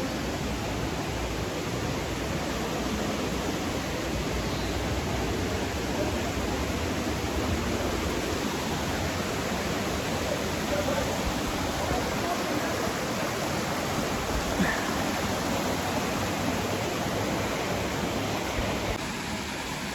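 Steady rushing and splashing of falling water from a mountain waterfall, an even roar that eases slightly near the end.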